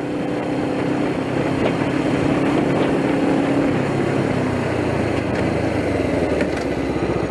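Motorcycle engine running steadily under a continuous rush of road and wind noise. Its pitch holds, then drops a little about halfway through.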